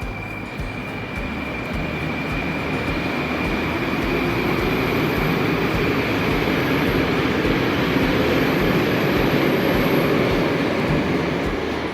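Moscow metro train running on the rails: a loud rumble builds over several seconds, peaks and eases off near the end, with a steady high whine through the first half.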